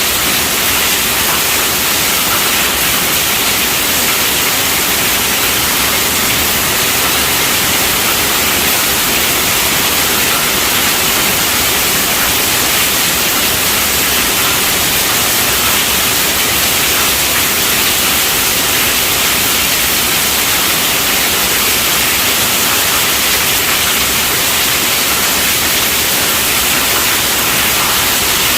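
Heavy rain falling on a tent roof: a dense, steady hiss with no letup and no thunder.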